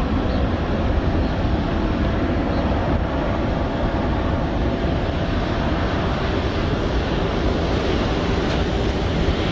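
Jet aircraft engines making a steady roar, with a faint steady whine for a few seconds.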